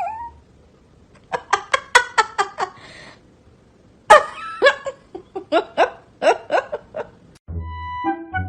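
A person laughing hard in two runs of quick ha-ha-ha pulses, the second starting loudest. Music starts near the end.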